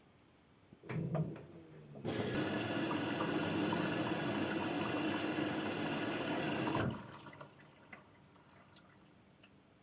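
Water running hard for about five seconds, then cutting off abruptly, with faint drips afterwards. A few knocks just before the flow starts.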